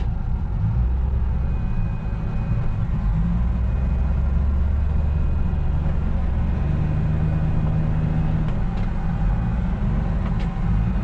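A vehicle engine running steadily with a low rumble, with a few faint clicks in the second half.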